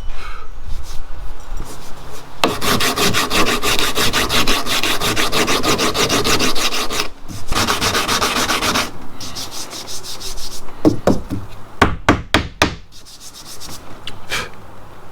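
Coarse P60 abrasive paper on a hand sanding bat rubbed back and forth over a hardened gelcoat repair on a boat hull, knocking the filled patch back flat. Quick, steady strokes go on for several seconds, then a few separate strokes follow near the end.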